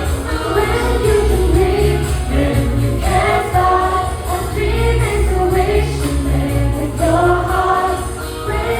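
Choir singing in harmony over instrumental accompaniment with a strong bass line and light high percussion.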